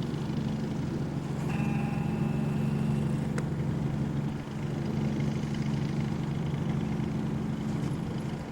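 Cessna 172's piston engine idling on the ground, a steady low drone heard inside the cabin. A brief steady tone sounds for about a second and a half, starting about a second and a half in.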